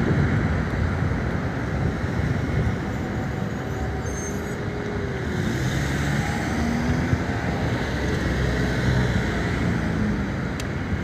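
City street traffic: a steady rumble of cars driving past.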